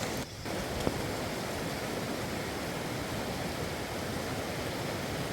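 Fast mountain river rushing: a steady, even wash of water noise that briefly drops out just after the start, with a single sharp click about a second in.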